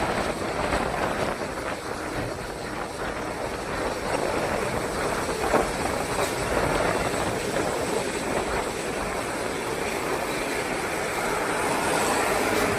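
Steady rain falling, an even rushing noise without pauses.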